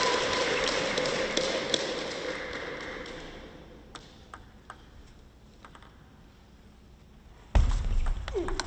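Crowd noise in a sports hall dying away over the first few seconds, then a few light, sharp taps of a table tennis ball. About a second before the end comes a sudden loud burst of crowd noise.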